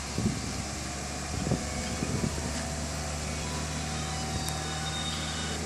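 Toyota Corolla Altis engine idling steadily, with a few short knocks in the first couple of seconds.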